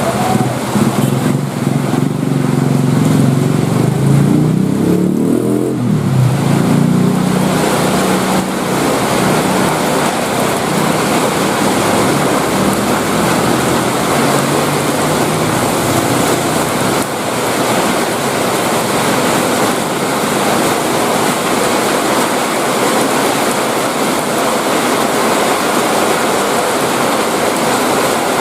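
Heavy rain falling steadily as a dense, even hiss. Through the first several seconds a passing motor vehicle's engine runs under the rain, rises briefly in pitch, then fades out about seven seconds in.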